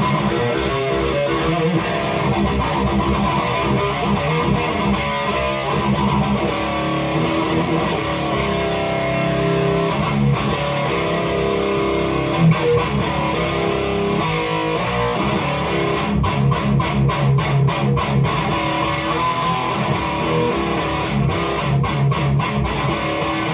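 Heavily distorted electric guitar playing metal riffs through a REVV G3 distortion pedal on its red, most aggressive setting. It has passages of rapid, evenly repeated notes about two-thirds of the way through and again near the end. The tone is tight and mean.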